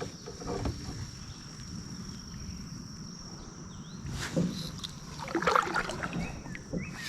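Lakeside ambience heard from a drifting kayak: a steady high-pitched insect drone, a few soft knocks and water sounds from the kayak a little past the middle, and short falling bird chirps near the end.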